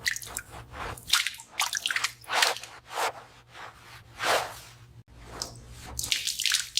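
Repeated irregular rubbing strokes on a surface, about one or two a second, over a steady low hum.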